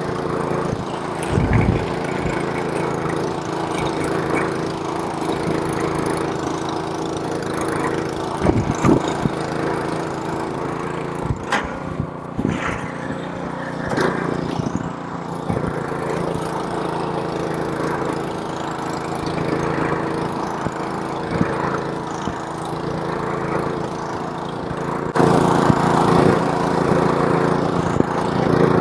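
Snowblower's small engine running steadily while it clears snow, with a few short knocks along the way. It grows louder about 25 seconds in.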